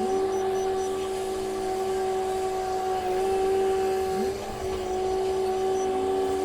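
Heavy diesel machinery running with a steady hum. A lower engine note slides up and down a few times as engine speed changes.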